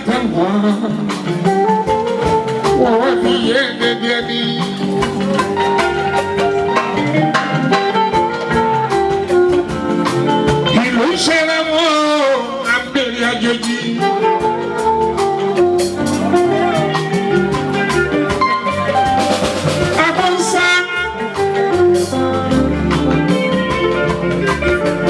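Live fuji band music playing steadily, with dense percussion and pitched instruments and no clear words.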